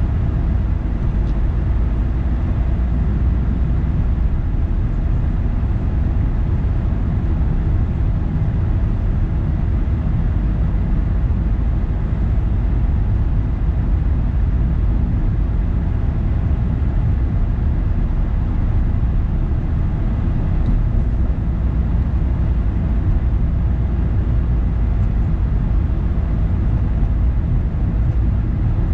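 A car driving steadily: a constant low rumble of engine and road noise, with no change in speed.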